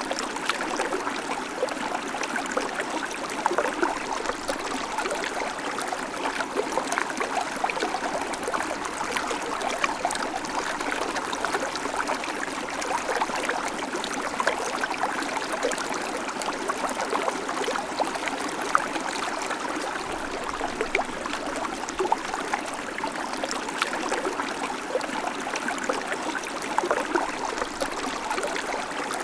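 Babbling creek: water running and trickling over stones, a steady bubbling rush with fine splashy flickers throughout.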